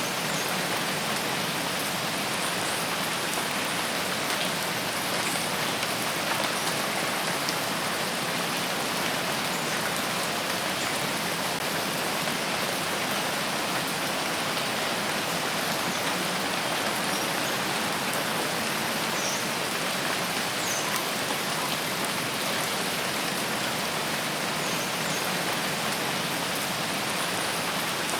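Steady rainfall: an even, unbroken hiss of rain, with scattered faint drop ticks.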